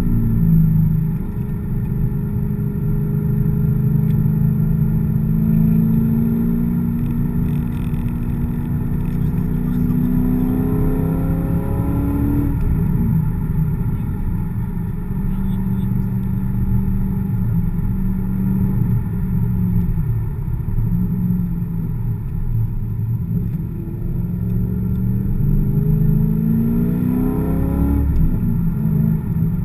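Chevrolet Corvette's V8 engine heard from inside the cabin, pulling hard with its pitch climbing for about twelve seconds before falling abruptly. It settles lower, then climbs again near the end and drops once more.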